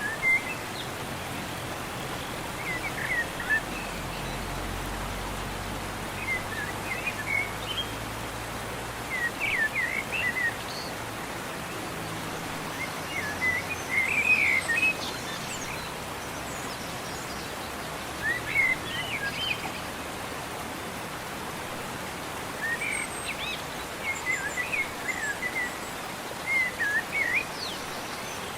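Small birds chirping and twittering in short phrases every few seconds over a steady background hiss of outdoor ambience.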